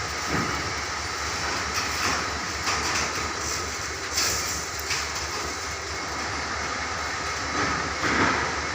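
Steady rail or machinery noise with a few short knocks scattered through it.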